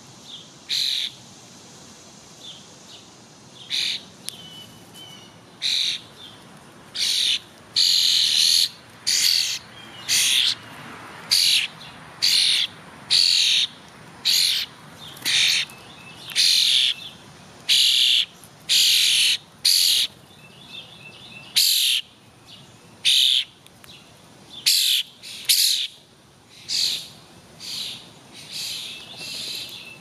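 A bird calling over and over, short loud calls at about one a second, with fainter chirps from other birds behind.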